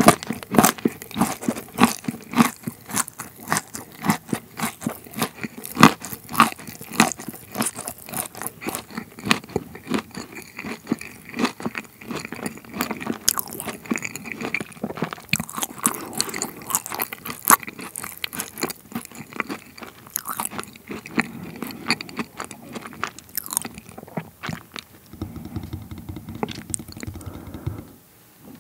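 Close-miked chewing of a crunchy mouthful, most likely the pavlova's crisp meringue with cream, with many sharp crackles that thin out over the last few seconds.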